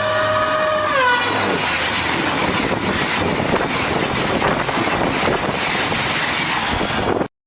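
A train horn sounding a steady chord that drops in pitch about a second in as the train passes, followed by the loud steady rush of the train going by. The sound cuts off abruptly near the end.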